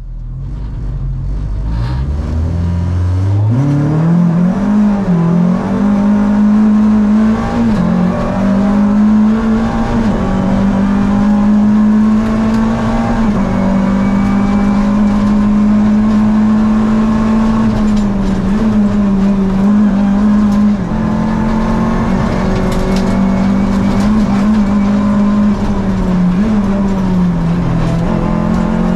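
Rally car engine heard from inside the cabin, revs climbing hard over the first few seconds and then held high as the car is driven flat out, the pitch dipping briefly here and there.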